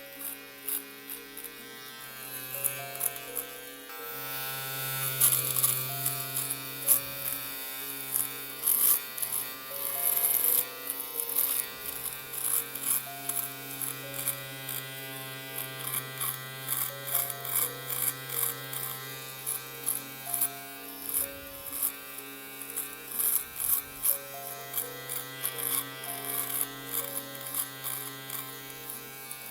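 Electric shaver buzzing steadily, with a rapid crackle of the cutter working through stubble.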